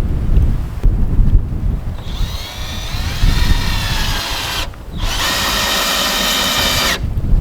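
Power drill running in two bursts: first for about two and a half seconds with its pitch shifting, then after a brief stop a steady run of about two seconds. Wind rumbles on the microphone before the drill starts.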